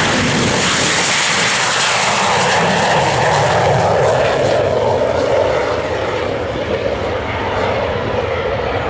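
F-86 Sabre jet fighter's engine noise, a loud steady rushing roar whose high hiss eases a little about halfway through.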